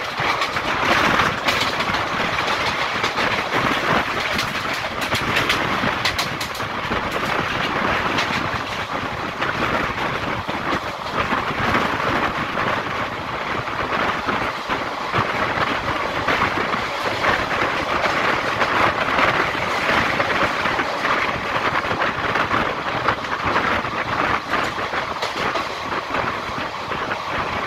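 Indian Railways passenger coach running at speed, heard from its open window or doorway: a steady rush of wheels on rails and passing air, with frequent clicks of the wheels over rail joints.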